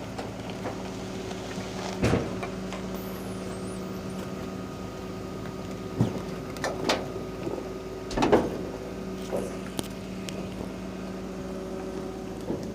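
Garbage truck engine running steadily with a constant hum, while bags of rubbish are thrown by hand into the rear hopper, landing with several thuds about two, six, seven and eight seconds in.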